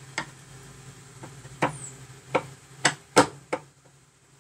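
Short, sharp clicks and knocks of a screwdriver being set against a kitchen cabinet door hinge and its screw, about six at uneven spacing, the loudest a little past three seconds in.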